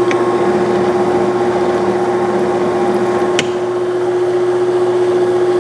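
A 1967/68 Clausing Colchester 1340 lathe running at 236 RPM under power feed, cutting a 20-threads-per-inch thread, with a steady gearhead hum. A single sharp click comes about three and a half seconds in.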